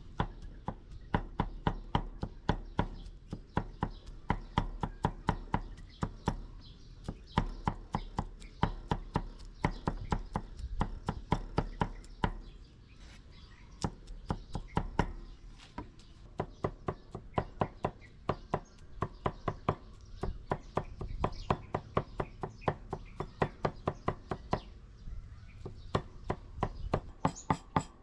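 Knife chopping food on a cutting board in rapid runs of about four strokes a second, broken by short pauses.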